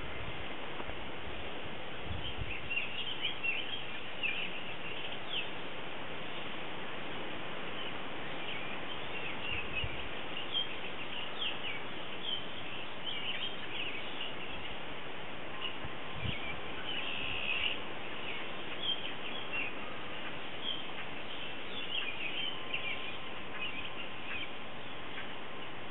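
Small birds chirping in many short, scattered calls over a steady outdoor background hiss.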